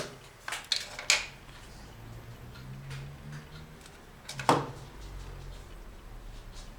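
A few light clicks and taps while a felt doll's arm is being hot-glued on, with one sharper knock about four and a half seconds in, over a faint low hum.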